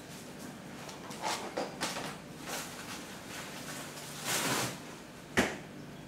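Handling noises from unpacking wooden beehive parts: a few light knocks and clicks, a brief rustle about four seconds in, then a sharp knock a little after five seconds.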